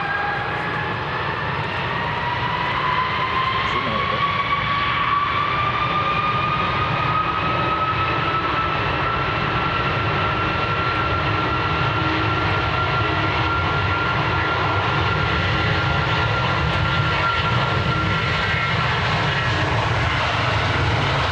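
Jet engines of a large military transport aircraft spooling up: a whine climbs over several seconds, then holds steady above a constant low rumble.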